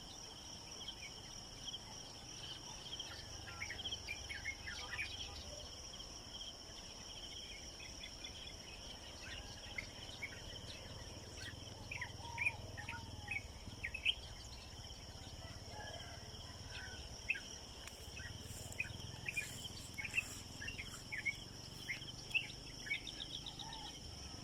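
Steady high-pitched shrilling of insects in the background, with many short, quick chirps of small birds scattered throughout, coming thicker in the second half.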